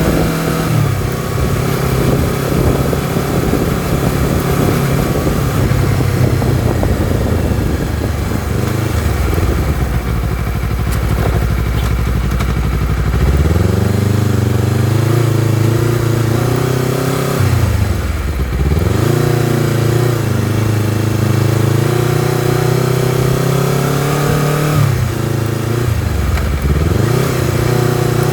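Honda CBR250RR motorcycle engine and exhaust under riding, the revs climbing and then dropping sharply several times, about a second in, near the middle and twice in the second half, as through gear changes, with a steadier low-rev stretch before the middle.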